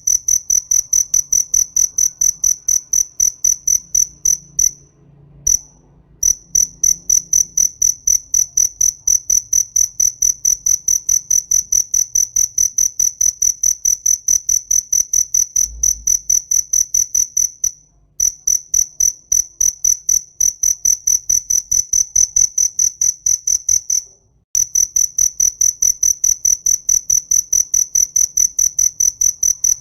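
Cricket chirping: a loud, high-pitched chirp repeated evenly, about four a second, stopping briefly three times.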